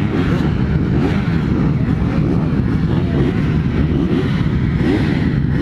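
Motocross dirt bike engines revving, their pitch climbing and dropping again and again in overlapping sweeps over a steady low rumble.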